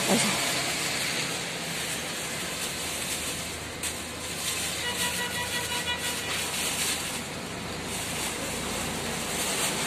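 Steady hiss of rain, with a thin plastic bag rustling as handfuls of green beans are moved about in it.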